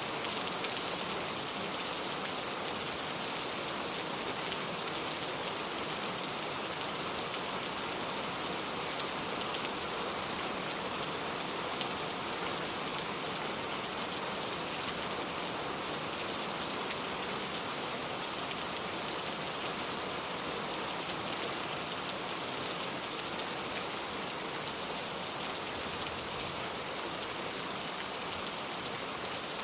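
Heavy rain pouring steadily, an even hiss of drops with faint scattered ticks of drops striking a surface.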